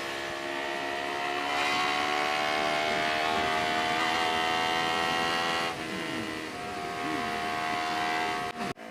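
Honda CBR250RR motorcycle engine running through a custom aftermarket exhaust. It is revved up about a second and a half in and held at a steady higher speed for about four seconds, then drops back toward idle, with a brief break near the end.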